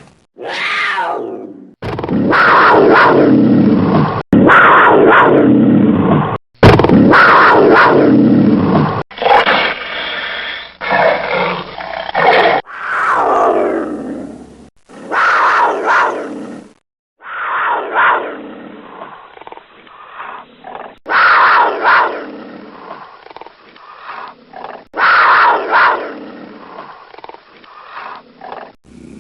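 Big cats roaring and growling: a string of separate recordings cut together, a dozen or so calls of a second or two each, several falling in pitch.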